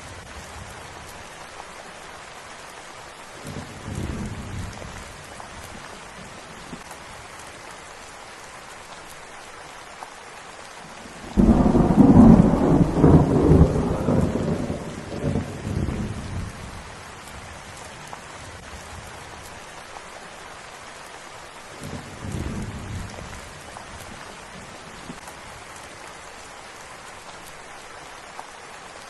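Steady rain falling, with thunder. Soft rumbles come a few seconds in and again past the middle, and a loud thunderclap breaks suddenly about eleven seconds in and rolls on for about five seconds.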